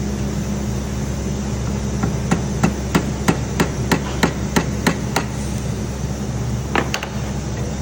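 Hammer tapping an easy out (screw extractor) into a drilled-out broken exhaust-manifold stud: a quick run of about ten sharp strikes, roughly three a second, then two more taps near the end.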